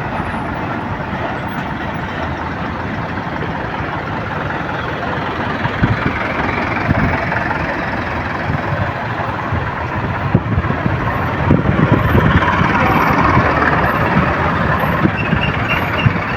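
Road traffic noise from buses and trucks, their engines running in slow, jammed traffic, a steady noise that grows a little louder in the second half.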